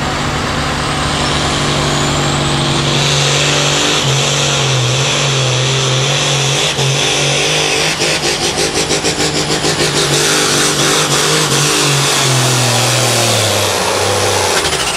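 Hot farm class Case pulling tractor running at full power as it drags the pulling sled, its engine note held high. The loudness pulses rapidly for a couple of seconds near the middle, and the engine pitch steps down near the end as the run finishes.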